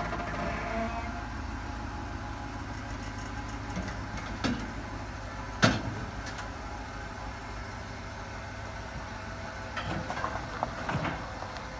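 The 5.3-litre GM V8 of a 2005 Chevrolet Tahoe running at a steady low idle. The engine has a random misfire and runs rich. A single sharp click comes about five and a half seconds in.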